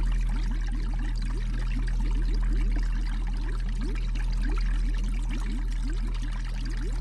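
Water bubbling and gurgling, with many quick rising blips, over a steady low hum.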